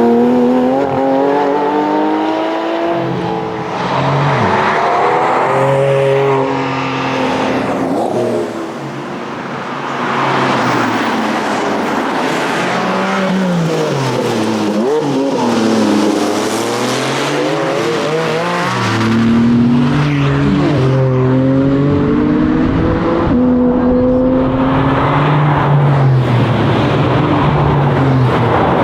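Porsche Cayman GT4's 4.0-litre naturally aspirated flat-six under hard driving, its pitch climbing through the revs and dropping back again and again with gear changes. The engine eases off briefly about a third of the way in, and about halfway through it falls steeply and then climbs back.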